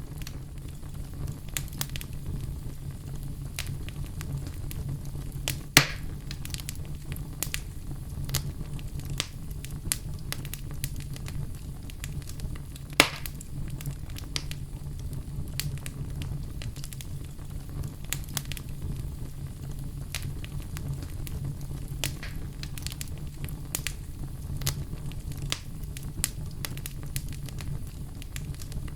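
Wood fire crackling, with a steady low rumble and scattered pops. Two louder pops come about six and thirteen seconds in.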